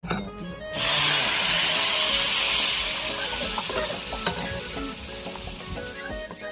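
Food sizzling in a hot frying pan, starting suddenly about a second in and slowly dying down, over soft background music.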